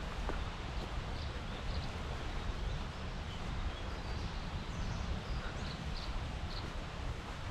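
Wind rumbling on a chest-mounted GoPro's microphone, with a few faint, short, high bird chirps scattered through.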